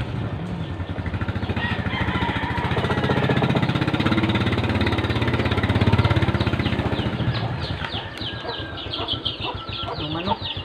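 Motorcycle engine running with a fast, even pulse, growing louder toward the middle and then easing off. In the last few seconds there is rapid high-pitched chirping over it.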